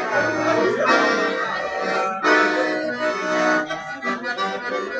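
Accordion playing a forró-style tune, melody over chords with bass notes, and no singing.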